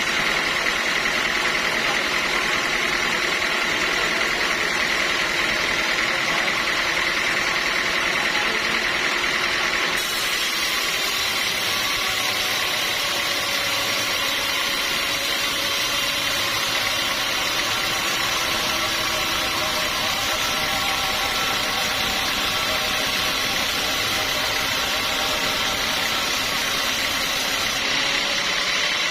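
Sawmill machinery running steadily, a constant engine-like drone with held tones. Its sound changes abruptly about a third of the way through, taking on more hiss.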